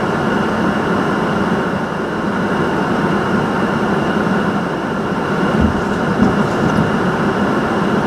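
Hurricane-force eyewall wind blowing in a loud, steady, train-like rush, swelling slightly a few times near the end, with a thin steady high whistle running through it.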